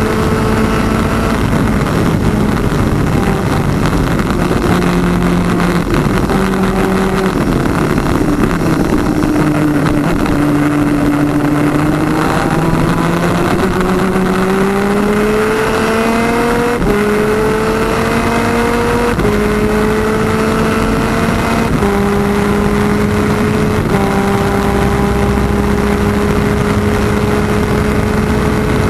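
PVP twin 250cc superkart's two-stroke engines at racing speed. The pitch climbs steadily and drops suddenly at each gear change. Midway it eases down and climbs back out of a slower corner.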